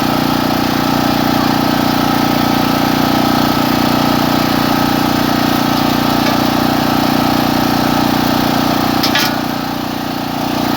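An engine running steadily at an even speed. About nine seconds in there is a short knock, and the sound drops a little in level for about a second.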